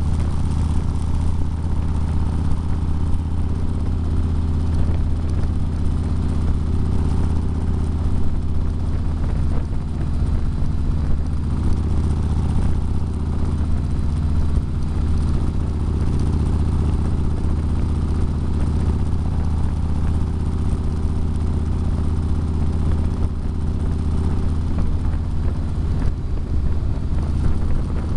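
Motorcycle engine running steadily at highway cruising speed, a deep even drone with a rush of wind over it.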